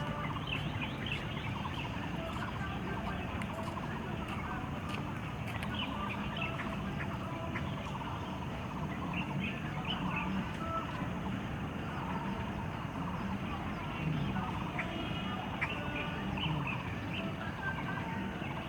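Birds calling repeatedly in short chirps over a steady background din.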